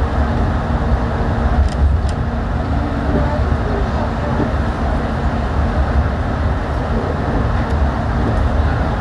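Yurikamome rubber-tyred automated train running along its guideway: a steady rumble with a low hum, and two faint clicks about two seconds in.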